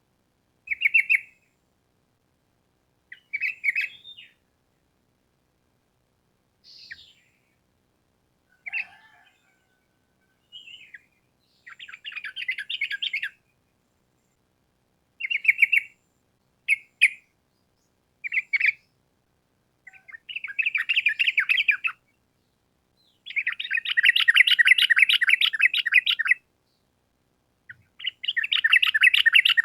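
Yellow-vented bulbul (trucukan) singing. Short bubbly chirps at first, then longer, fast rattling phrases (the 'ropel') lasting two to three seconds each, the longest about ten seconds in from the end.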